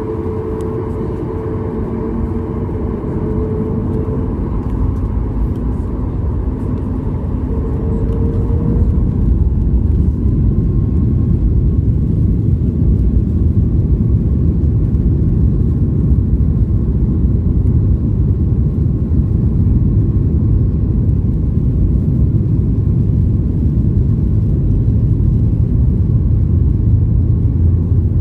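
Jet engines of a Boeing 737-8200 MAX (CFM LEAP-1B turbofans) at takeoff power: a few humming engine tones in the first eight seconds give way to a louder, steady low rumble.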